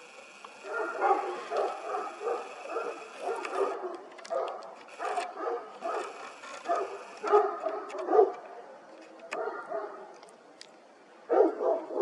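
A dog barking repeatedly in short calls, starting about a second in.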